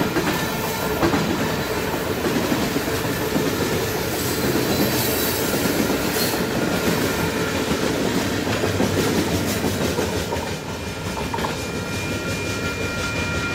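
Freight train cars rolling past: a steady rumble of steel wheels on rail with the clickety-clack of wheels over rail joints. A high, steady squeal comes in near the end.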